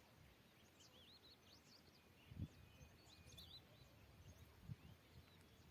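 Near silence outdoors: faint, scattered bird chirps over a low background hiss, with one soft low thump a little before halfway through.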